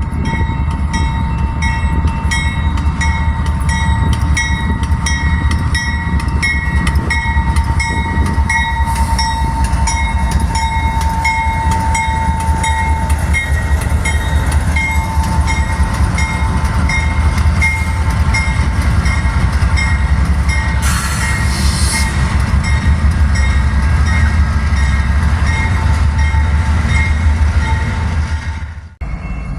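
Train running, with a loud steady rumble, a steady tone and a regular pulse about twice a second that fades in the last third. A short hiss comes about 21 seconds in. The sound drops out abruptly just before the end.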